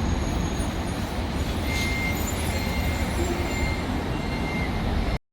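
Steady, low-pitched road noise of a moving vehicle, cutting off abruptly near the end.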